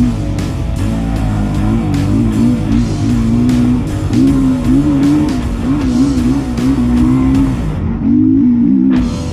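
Honda CRF450L's single-cylinder four-stroke engine revving up and down as the bike is ridden on the motocross track, its pitch rising and falling with the throttle, over rock guitar music. About a second before the end, the high hiss cuts out briefly.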